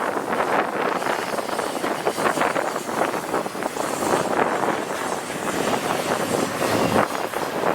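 Intermodal freight train's cars rolling past: a steady rush of wheel and rail noise, thick with fast clicking and clatter.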